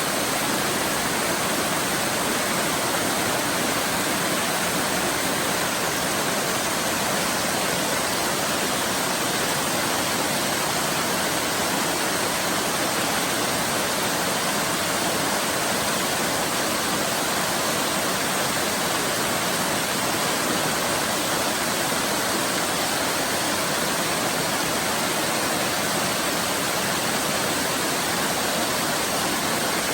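Waterfall rushing steadily, a constant even roar of falling water with no breaks or changes.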